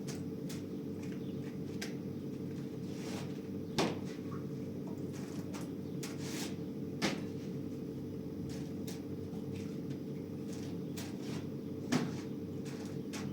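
A steady low hum with scattered light clicks and knocks over it, three of them louder, a few seconds apart.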